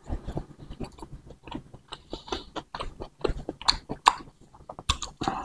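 Close-miked chewing of bakso meatballs and rice vermicelli noodles in broth: a run of short, wet mouth clicks and smacks.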